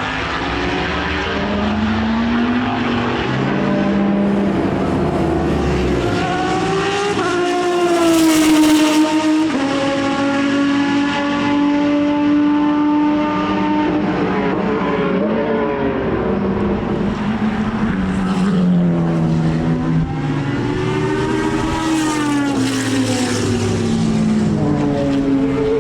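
Racing car engines on track, their note climbing and dropping in steps through gear changes, with loud pass-bys about eight seconds in and again about twenty-two seconds in.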